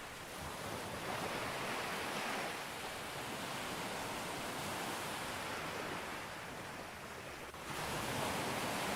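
Ocean surf breaking on a beach: a steady rushing wash of waves, easing off and then surging up suddenly as a new wave breaks near the end.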